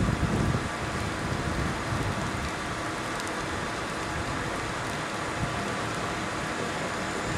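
Steady hiss of rain during a storm, with low gusts of wind on the microphone.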